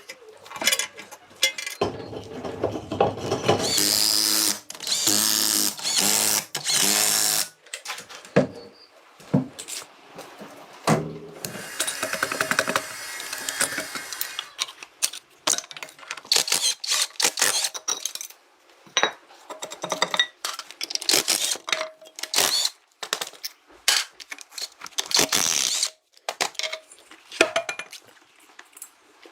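A power tool runs in bursts of a few seconds, twice at length, among many short clicks and clanks of hand-tool work.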